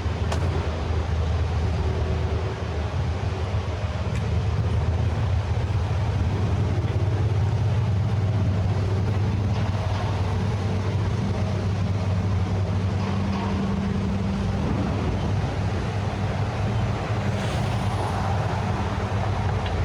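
City street ambience dominated by a steady, low engine hum from a nearby motor vehicle, its pitch shifting slightly partway through.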